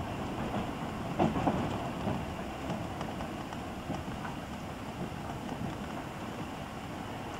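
Inside a running British Rail slam-door electric multiple unit (Class 305, 307 or 308), recorded on cassette tape: a steady rumble of wheels on the track, with a few louder knocks about a second in.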